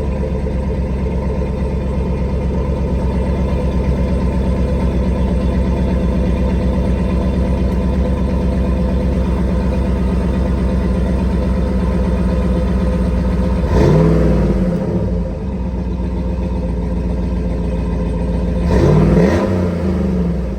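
Cadillac Escalade engine idling steadily just after a cold start, then revved briefly twice, about 14 seconds in and again about 19 seconds in, the pitch rising and falling back to idle each time.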